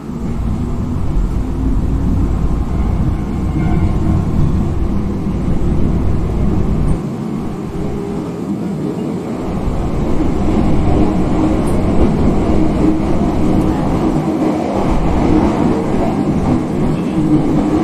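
Running sound of a Hankyu 5300-series electric multiple unit with TDK8550-A traction motors: a steady rumble of wheels on rail with a traction-motor hum. The hum grows stronger in the second half, after a lighter stretch about seven to nine seconds in.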